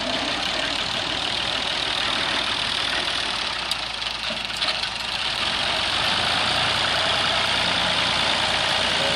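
Diesel engine of a heavy vehicle running steadily, getting a little louder about five and a half seconds in.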